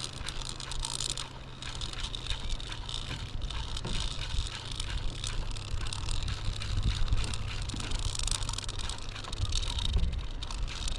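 Dive reel turning with dense fast clicking as line pays out under a sinking crab pot, over a steady wind rumble on the microphone.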